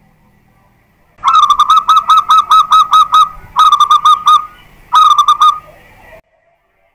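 Loud zebra dove (perkutut) song in three phrases of rapid, rolling coos at about five notes a second. The first phrase is long and the next two are shorter, and the sound cuts off suddenly near the end.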